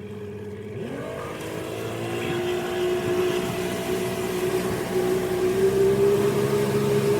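Fishing boat's motor speeding up: its pitch sweeps up about a second in, then keeps climbing slowly and grows louder as the boat gathers speed, over a rushing hiss.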